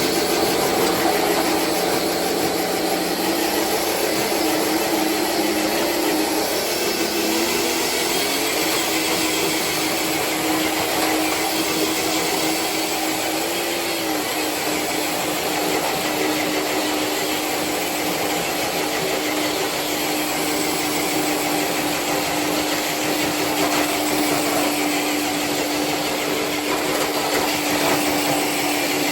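Electric motor and drivetrain of a Traxxas TRX4 RC crawler whining under load as it pulls a sled weighted with six bricks and a small ATV battery. The whine shifts pitch a couple of times in the first half, then holds steady over a constant hiss.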